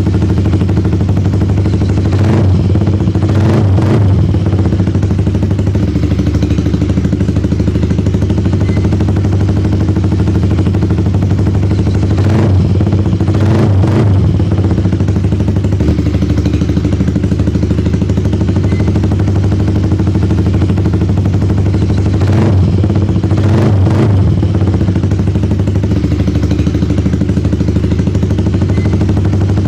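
Yamaha R15's single-cylinder four-stroke engine running through an M4 full-system aftermarket exhaust, with a steady deep idle. About every ten seconds the throttle is blipped twice in quick succession.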